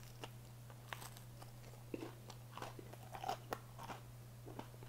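Faint crunching and chewing of a bite of pepperoni pizza crust, small irregular crackles and clicks of the mouth working, over a steady low hum.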